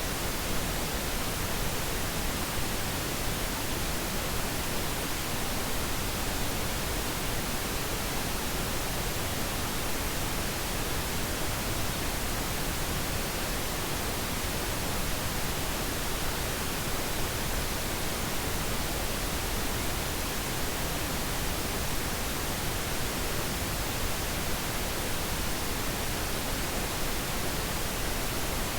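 Steady synthetic pink noise, an even unbroken hiss.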